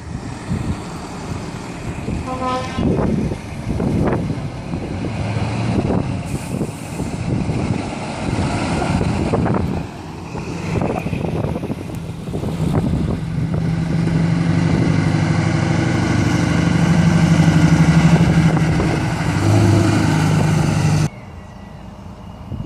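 Lorries driving past with engines running. A short horn toot comes about two seconds in, and a long, steady, low air-horn blast is held through the second half, cutting off sharply near the end.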